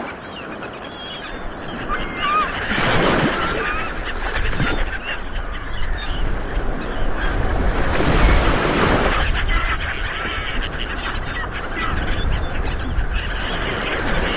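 Ocean waves rolling in and breaking, with two bigger surges about three and eight seconds in. Short bird calls sound over the surf in the first few seconds.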